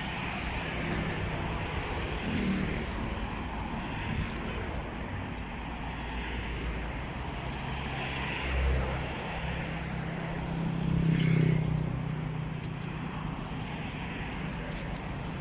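Road traffic going past, a steady hum of engines and tyres, with a vehicle passing closest about eleven seconds in.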